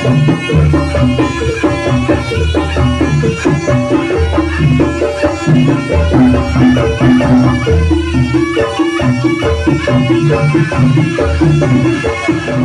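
Live jaranan (kuda lumping) ensemble music: drums and tuned percussion play a steady, repeating pattern over a low sustained tone.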